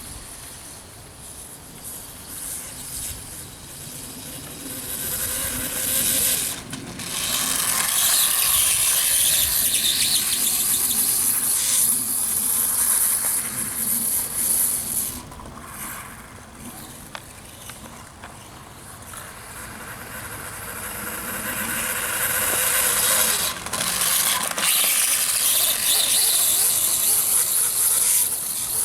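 Reely electric RC dirt bike running, its brushless motor whining and squealing along with tyre noise. It swells loudly twice as it comes close, with short cut-offs where the throttle is let off.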